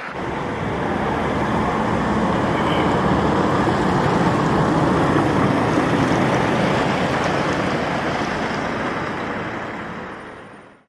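Road vehicle noise: a steady rush of engine and tyre sound that builds over the first two seconds, holds, and fades out near the end.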